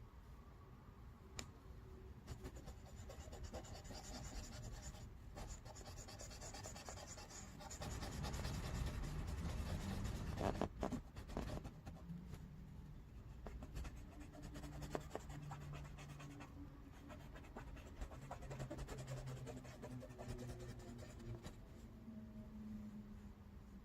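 Gel pen scratching steadily across paper as a background is coloured in with quick back-and-forth strokes. The scratching gets louder for a few seconds about a third of the way in.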